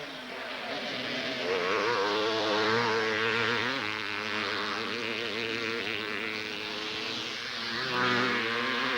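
Several two-stroke motocross motorcycles racing up a hill, their engines revving hard with the pitch rising and falling as the riders work the throttles.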